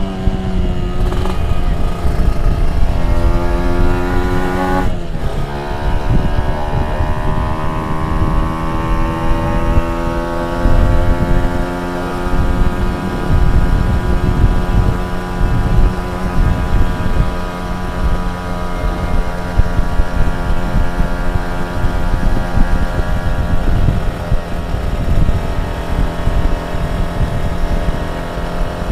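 A tuned two-stroke motorcycle engine running hard. Its revs drop sharply about five seconds in, then climb slowly and hold high and steady.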